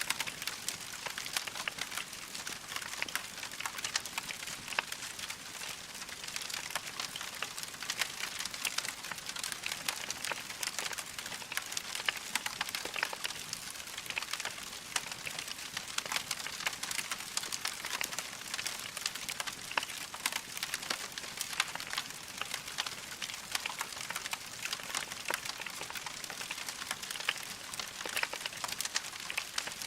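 Wood logs burning in a fireplace, crackling steadily: a dense stream of small pops and snaps over a soft hiss.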